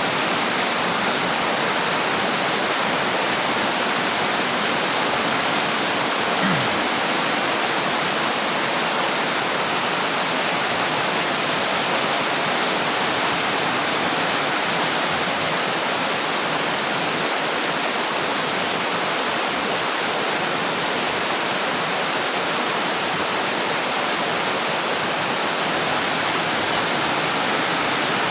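Heavy rain pouring down steadily: a dense, even hiss of falling water that holds at the same loudness throughout.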